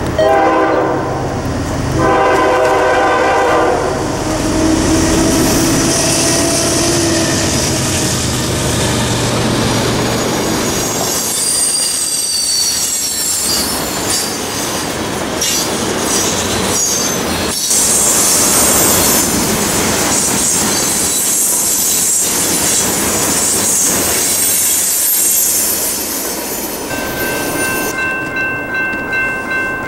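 Diesel freight locomotives sound two horn blasts as they arrive and rumble past, then a crude oil train's tank cars roll by with wheels squealing and clacking over the rail joints. Near the end another train's horn sounds a steady chord.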